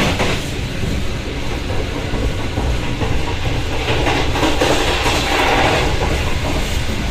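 A moving passenger train heard from inside the coach: steady running noise of the wheels on the rails.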